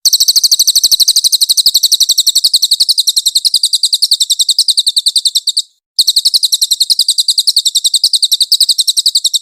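Cililin songbird in full rapid-fire song: a long, high-pitched trill of quickly repeated chirps, about ten a second. It breaks off briefly a little past the middle and then carries on.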